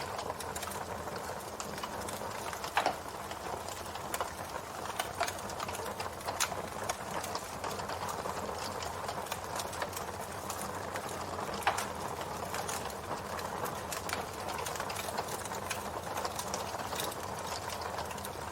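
Campfire burning: a steady hiss of flames with frequent small crackles and pops, two of them louder, about three seconds in and a little past halfway.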